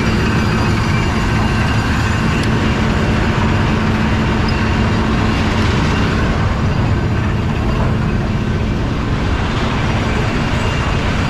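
Heavy diesel tractor-trailer running steadily, a constant low drone with no change in pitch.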